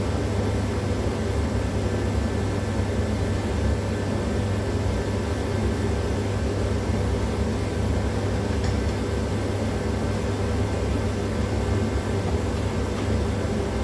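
A steady mechanical drone with a strong low hum, unbroken and even in level.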